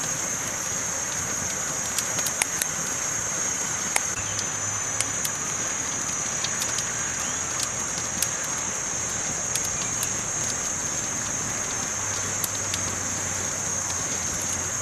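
Campfire crackling: scattered sharp pops and snaps over a steady hiss, with a few louder snaps about two to four seconds in.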